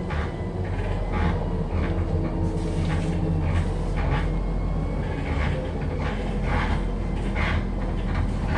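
Cabin sound of a moving MAZ-105 articulated city bus: a steady low drone from the diesel engine and road, with frequent short rattles and knocks from the body and fittings.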